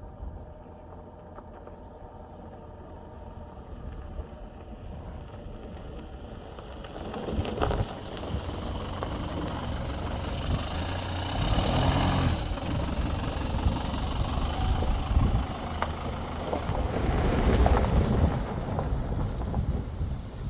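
Four-wheel-drive vehicle driving on a dirt road: steady engine hum and tyre noise that grows louder about seven seconds in, with a few knocks and rattles from bumps.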